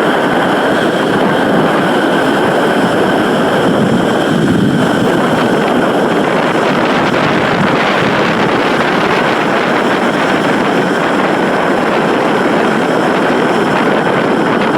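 Strong gale-force wind blowing over a phone's microphone: a loud, steady rushing noise that does not let up.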